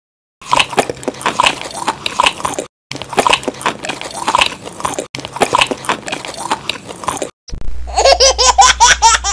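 Mouth chewing a piece of bread close up, with many small crackles and clicks, in three long stretches with brief pauses. About seven and a half seconds in, the chewing gives way to a quick run of high-pitched, childlike giggles.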